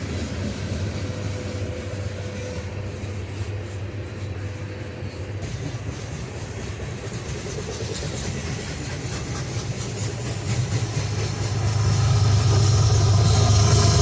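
A train's locomotive engine rumbling steadily, getting louder near the end.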